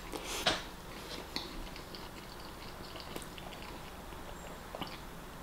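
Close-up mouth sounds of a person chewing a mouthful of deep-fried bread and fried egg: soft, wet, smacking chews with small clicks, and one louder burst about half a second in.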